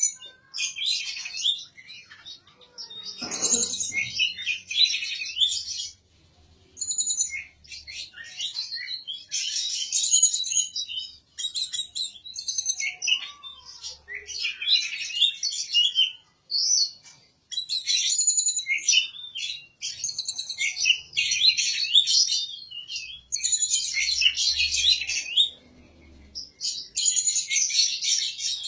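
A songbird singing long, rapid, varied phrases of high chirps and trills, broken by short pauses.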